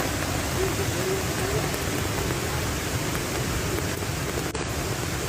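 Steady, even rush of falling water from the La Fortuna waterfall, pouring down into its pool.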